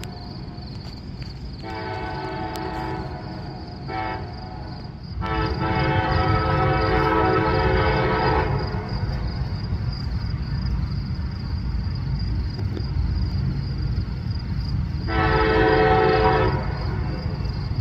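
Freight locomotive's five-chime K5HA air horn sounding the grade-crossing pattern: long, short, long, then another long blast near the end, over the low rumble of the passing train.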